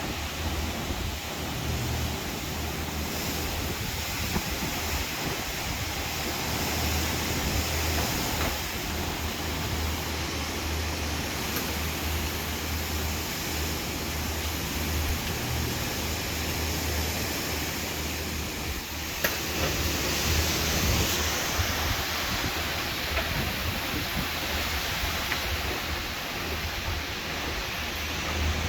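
Steady rushing noise of a strong thunderstorm wind, with a low steady hum beneath it and a few faint clicks; it swells a little about two-thirds of the way through.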